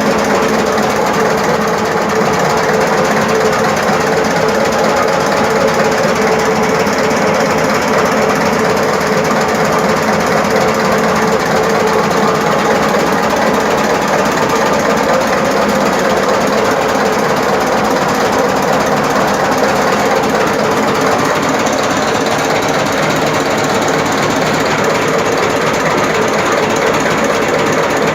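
10 hp Shaktiman single-cylinder diesel engine running steadily, driving a 5 kVA Kirloskar generator, with a fast, even knocking beat.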